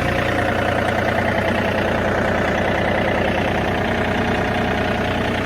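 John Deere tractor engine running steadily at idle just after being cranked and started.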